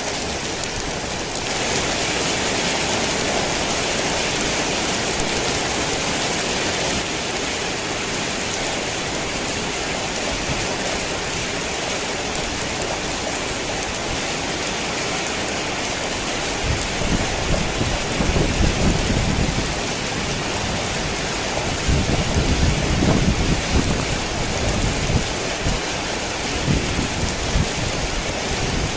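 Heavy rain falling steadily, with low rolling rumbles of thunder that come in a little past halfway, twice, and again at the end.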